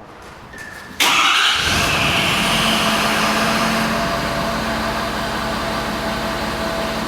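Ford F-350's 6.7-litre Power Stroke V8 turbo diesel starting about a second in and settling into a steady idle.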